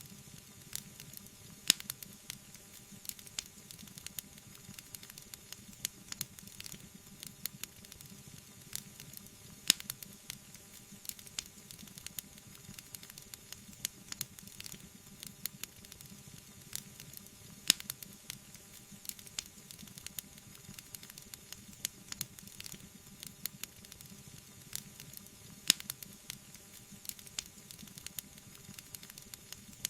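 Wood fire burning, crackling with a dense run of small pops over a soft hissing, bubbling sound. Four louder snaps stand out, about eight seconds apart.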